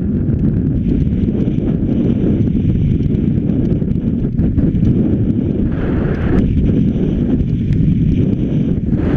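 Wind buffeting the microphone: a loud, steady low rumble, with a brief stretch of brighter hiss about six seconds in.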